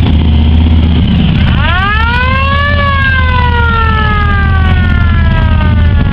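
A siren winds up quickly, peaks, then slowly winds down over about three seconds, over a steady low rumble of running engines.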